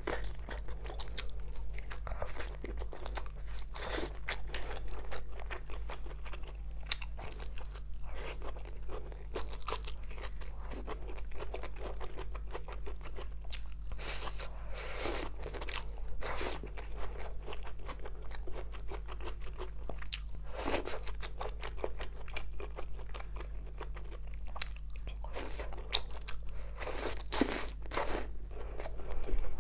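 Close-miked chewing and crunching as sauce-glazed skewered food, including green peppers, is bitten off the stick and eaten, with many short crisp crunches coming in clusters. A steady low hum runs underneath.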